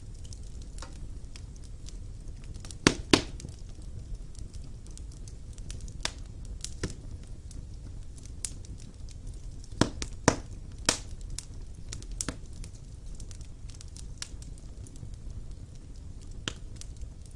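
Wood fire burning in a fireplace: a low steady rumble of flames with irregular sharp crackles and pops, the loudest in quick pairs about 3 and 10 seconds in.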